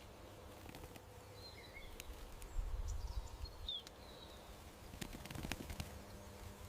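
Quiet garden ambience with a few short, high bird chirps, some light clicks and a low rumble that swells briefly twice.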